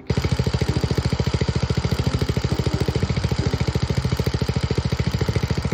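Small engine running with a rapid, even beat. Its spark plug is loose in the cylinder head, and running it this way strips the plug threads.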